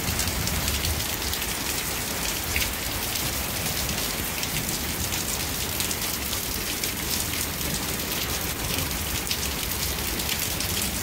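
Steady rain during a severe storm, with many individual drops ticking close by.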